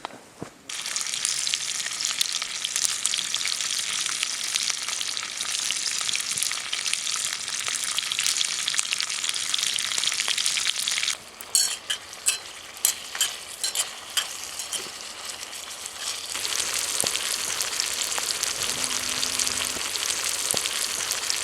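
Food sizzling in a hot pan over a campfire, starting suddenly about a second in. Midway the sizzle eases for a few seconds while sharp pops and spits crackle, then rises again.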